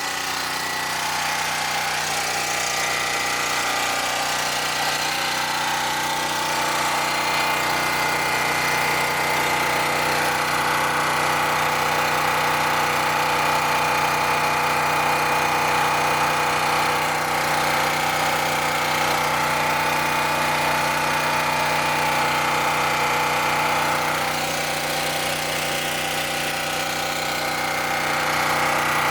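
Large 10,000-watt portable generator's engine running steadily under load, with an even hum.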